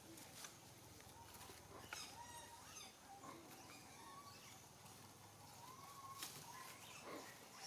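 Faint, scattered animal calls: short chirps that rise and fall, with a few sharp clicks among them.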